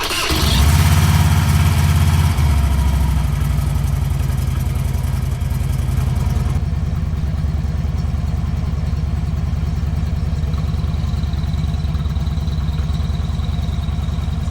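A 2006 Harley-Davidson Street Glide's V-twin engine starts, revs briefly and settles about two seconds in to a steady, evenly pulsing idle, with a faint thin whine in the last few seconds. It is run to listen for the rattling and squealing that the owner suspects come from a worn belt or pulley.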